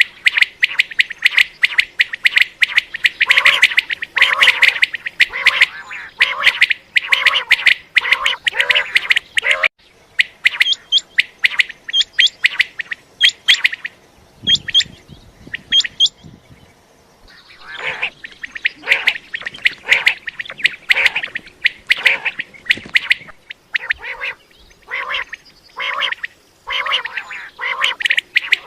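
Common quail calling over and over in quick, crowded calls. The calls thin to a few clear high notes about ten seconds in, pause briefly around the middle, then come thick again from about two-thirds of the way through.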